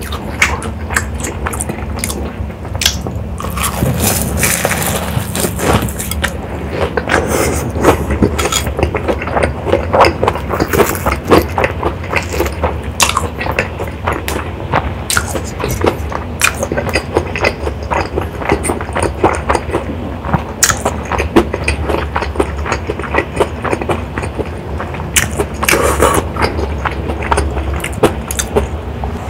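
Close-miked chewing of a crispy breaded, cheese-filled pork cutlet: a dense, continuous run of crunching and wet mouth sounds, with a steady low hum underneath.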